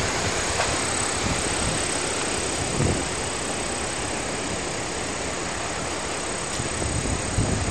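Strong wind blowing in a steady rush, with a gust buffeting the microphone about three seconds in.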